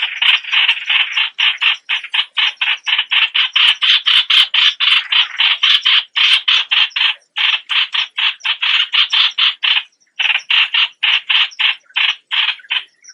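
Streak-eared bulbul giving a fast run of harsh, rasping call notes, about four a second, with short breaks about 7 and 10 seconds in.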